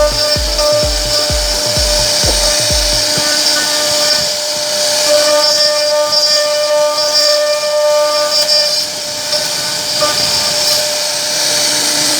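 CNC router spindle running steadily while cutting wood, a constant whine with several steady tones. In the first three seconds a deep thump repeats about twice a second.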